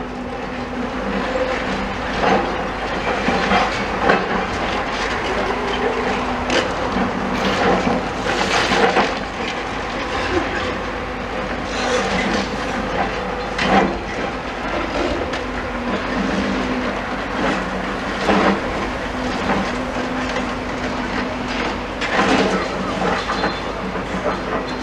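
Demolition excavator with a crusher attachment at work: its engine runs with a steady drone, under irregular crunches and clatters of masonry and metal being bitten and pulled down.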